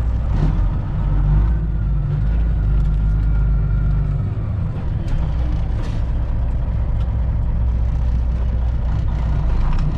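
Straight-piped Detroit diesel engine of a semi truck idling, a steady low rumble.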